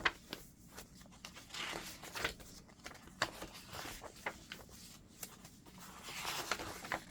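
Paper and fabric pages of a chunky handmade junk journal being handled and turned: soft rustling with scattered light clicks and taps, and two longer rustles about two seconds in and near the end.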